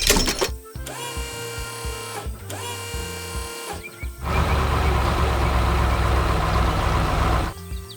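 Background music with pitched notes over a low beat, opening with a sharp hit. About four seconds in, a heavy engine starts running steadily, like the diesel of a construction machine, and drops out briefly near the end.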